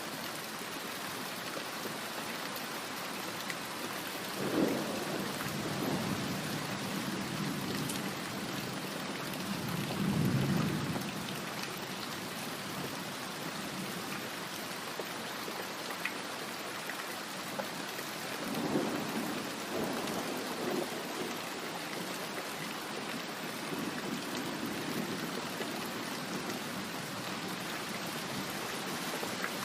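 Steady heavy rain with thunder rumbling several times: a swell about four seconds in, a louder rumble around ten seconds, another near nineteen seconds and a fainter one later.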